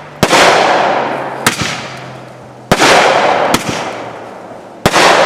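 Consumer fireworks going off: three loud bangs about two seconds apart, each trailed by a hissing crackle that fades, with smaller pops in between.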